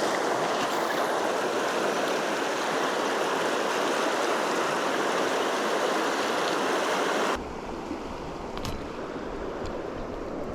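River current rushing steadily over rocks. About seven seconds in it cuts abruptly to a quieter, lower rush.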